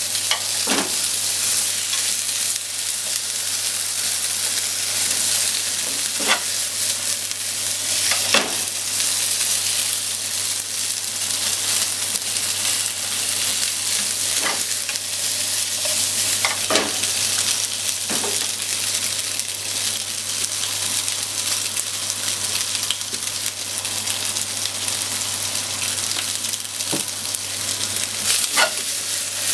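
Salmon pieces and sliced potatoes sizzling in a frying pan, a steady hiss, with a short knock or scrape now and then as they are stirred against the pan.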